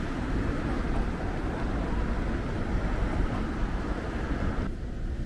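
Steady low rumble of vehicle noise. The higher hiss drops away abruptly near the end, leaving the low rumble.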